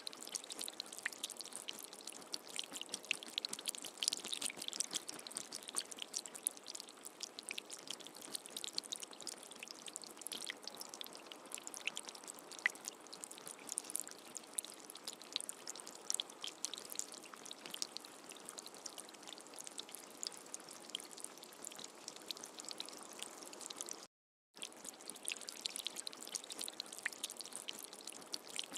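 Steady rain falling, a dense patter of drops. It cuts out completely for about half a second around 24 seconds in, then resumes.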